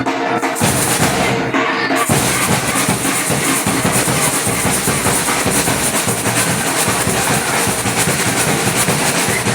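Batucada drum ensemble (a samba bateria) playing a dense, driving samba rhythm, with the low drums coming in fuller about two seconds in.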